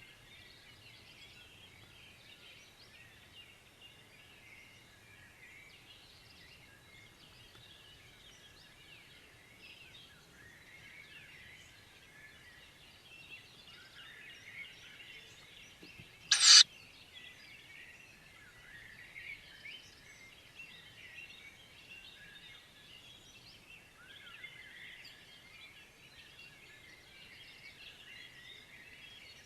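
Many small songbirds chirping and singing together, a steady background of short calls. About halfway through comes one loud, harsh hissing burst lasting about half a second, much louder than the birdsong.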